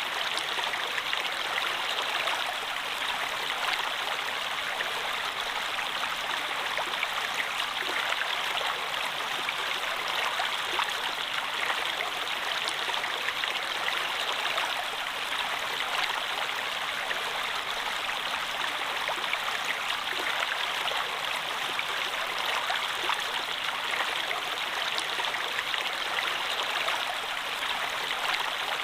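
Running water, like a stream flowing steadily: a constant splashing, bubbling rush with no breaks or changes.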